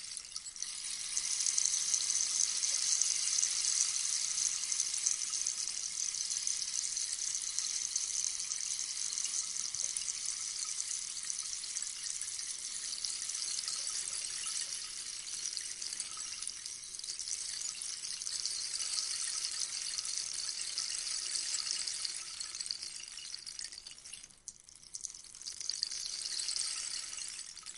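Rainstick tipped slowly, its beads trickling down through the tube in a long, even rain-like hiss. The flow dies away about 24 seconds in, then the stick is turned over and a fresh cascade starts.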